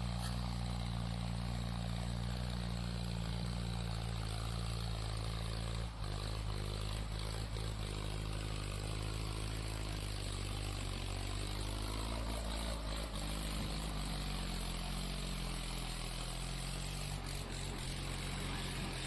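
Tractor diesel engine running steadily at idle.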